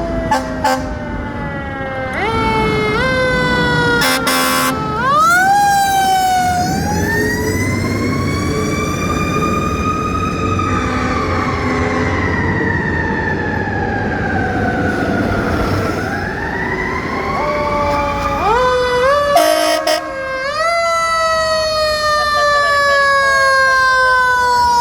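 Fire apparatus mechanical siren on a response, revved up in short steps, then winding up to full pitch and slowly coasting down, then revved and falling again. Brief air horn blasts come about four seconds in and again shortly before the twenty-second mark.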